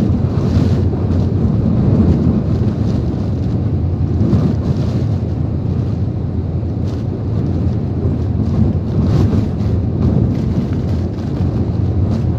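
Typhoon-force wind and heavy rain: a loud, steady rushing rumble with gusts that swell and ease.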